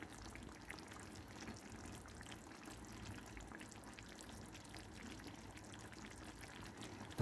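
A pot of chicken and shiitake mushroom sauce simmering hard, with a faint, steady crackle of small bubbles popping. It is boiling vigorously enough to be close to overflowing.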